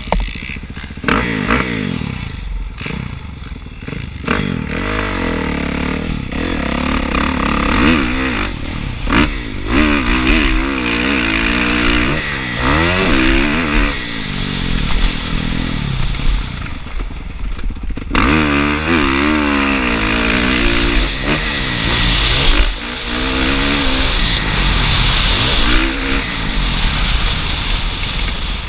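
Motocross bike engine at full race pace, revving up and dropping again over and over as the throttle is opened and shut. Now and then there is a brief sudden cut in the sound.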